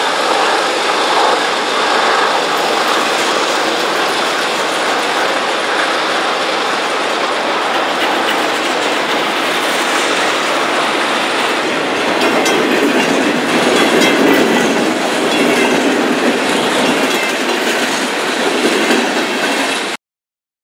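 Freight train of boxcars rolling past: a steady rumble and clatter of steel wheels on the rails, which cuts off abruptly near the end.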